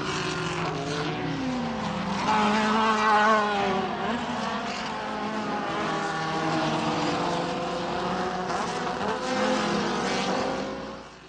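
Formula race car engines passing at high revs through corners, the engine pitch dropping and climbing again as the cars slow into the bends and accelerate out. Loudest about three seconds in, and fading away near the end.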